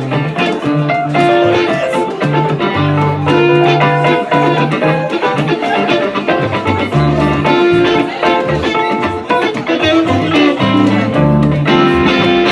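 Live band playing an instrumental passage with no singing: guitar over keyboards and percussion, with a steady beat and moving bass notes.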